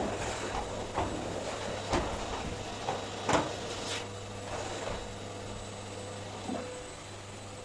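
Light knocks and clicks of household things being handled, about six spaced a second or so apart, the sharpest a little after three seconds in, over a steady low hum.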